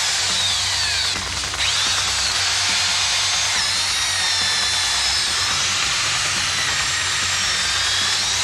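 Wood chipper running loud and steady, its high whine sagging in pitch about a second in and again around three and a half seconds in, then recovering.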